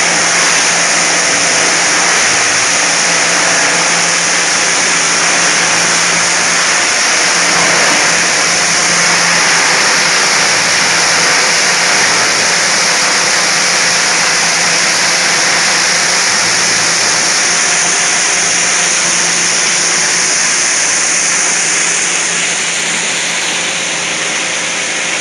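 Shredder for CRT TV plastic shells running, a loud steady noise with a low hum underneath that eases slightly near the end.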